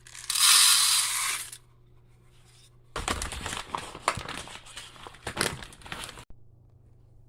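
Bird seed and its bag being handled: a loud hissing rush lasting about a second, then a few seconds of dense crinkling and crackling that stops suddenly.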